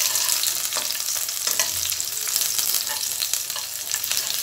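Whole spices (bay leaves, cinnamon, cardamom) and raisins sizzling steadily in hot oil and ghee in a frying pan, with a metal spatula stirring and scraping against the pan in a few short clicks.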